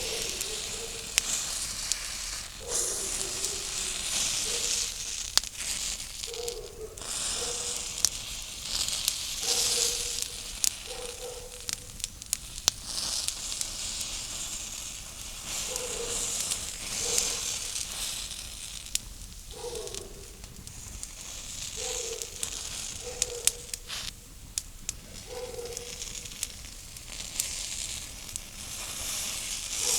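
Food sizzling over a campfire, with a steady hiss broken by frequent sharp crackles and pops. Short low tones recur every second or two underneath.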